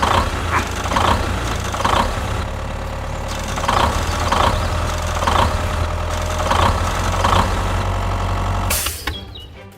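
Tractor engine running, with a steady low rumble and uneven chugs about once a second; it fades out near the end.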